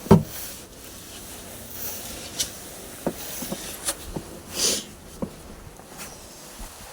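Snow brush sweeping snow off a car in short, separate strokes, about one every second, with a heavier thump right at the start.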